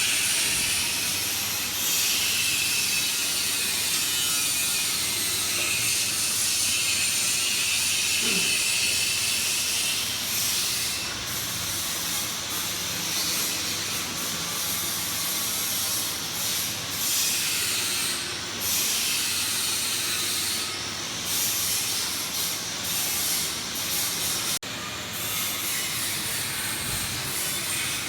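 PVC flexible duct forming machine running: a steady loud hiss with a faint high whine that wavers in pitch, with a brief drop-out about 24 seconds in.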